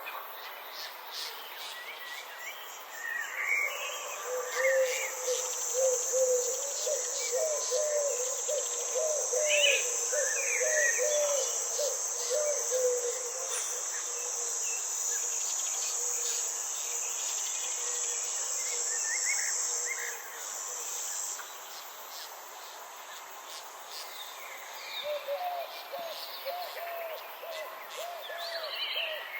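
Night forest ambience: insects trilling steadily in a high-pitched band, stopping about three-quarters of the way through, with scattered bird chirps and, twice, a fast run of low repeated call notes.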